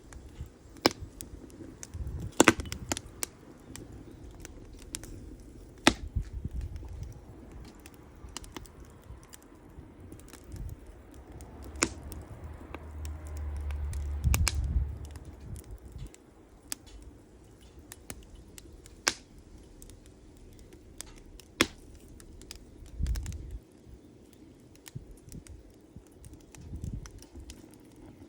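Wood campfire crackling, with irregular sharp pops every second or so. The loudest pops come near the start, and a low rumble swells for a few seconds around the middle.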